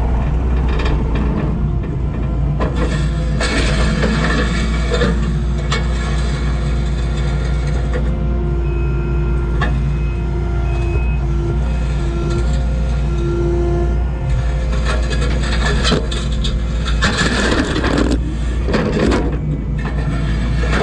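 Kubota compact track loader's diesel engine running under steady load, with bursts of clanking and scraping from the steel tooth bucket working broken concrete, loudest about three seconds in and again near the end.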